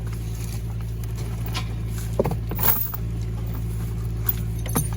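An engine idling steadily, with a few short metallic clinks and knocks over it.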